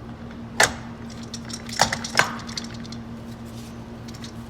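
Metal transmission parts clinking and knocking as the main shaft is slid into the assembly: three sharp clinks, about half a second in and twice around two seconds, with lighter ticks between. A steady low hum runs underneath.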